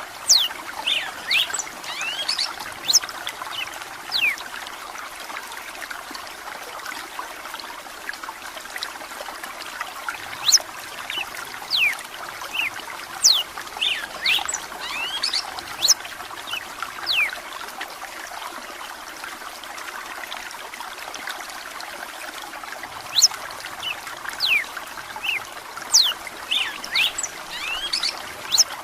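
Red-cowled cardinal (galo-de-campina) singing, a rapid series of short, sharp whistled notes that recur throughout, over the steady trickle of running water.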